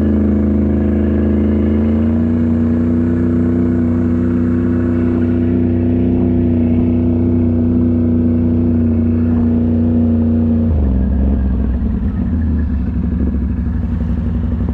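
Mud truck's engine running at steady high revs, its pitch stepping up slightly about two seconds in and holding, then dropping abruptly about eleven seconds in to a lower, rougher note as the throttle comes off.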